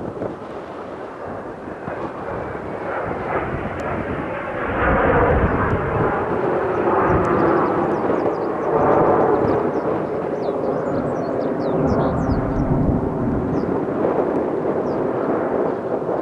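Kawasaki T-4 jet trainers of the Blue Impulse team flying by, the rush of their twin turbofan engines swelling over the first few seconds and then staying loud.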